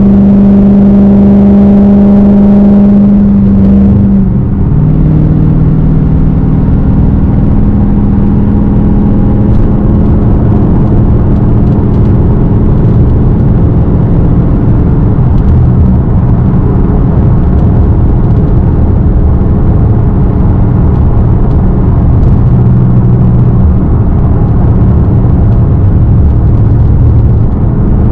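Straight-piped Dodge Hellcat's supercharged V8 exhaust, very loud, while driving. It holds a steady note for about four seconds, drops in pitch, then runs on at a lower, rougher, wavering drone.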